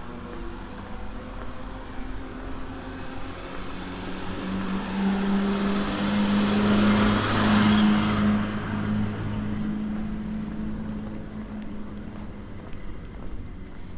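A car driving past: engine hum and tyre noise build to their loudest about seven to eight seconds in, then fade away.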